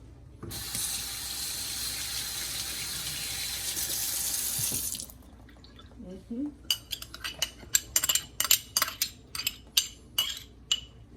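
Kitchen tap running steadily for about four and a half seconds, then shut off. Then a run of sharp, irregular clicks and knocks of kitchen utensils and dishes.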